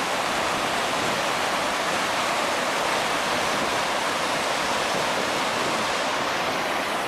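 Storm-swollen river in high flow: a steady, even rush of fast-moving water.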